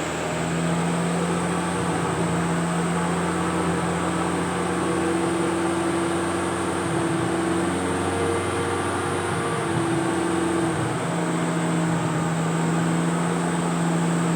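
Turbocharged Toyota 3S-GE four-cylinder engine running at a steady speed under load on a dyno, its pitch holding nearly level with small shifts. A thin high whine runs above it.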